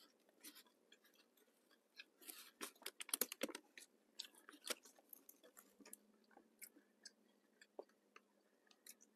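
Close-up chewing and crunching of a flaky-crusted Jamaican patty, with sharp crackles from biting and tearing the pastry. The crackling is densest about two to three and a half seconds in, then thins to scattered faint clicks.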